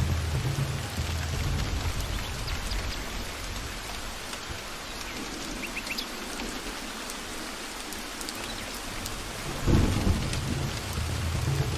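Steady rain falling in a forest, with low rolling thunder that dies away mid-way, then a sudden louder thunder crack near the end and the rumble building again.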